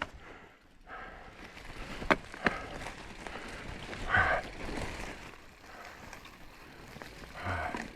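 Full-suspension mountain bike riding over a rough forest trail: steady tyre noise on the dirt, with two sharp knocks from the bike about two seconds in and louder scuffs around four seconds in and again near the end.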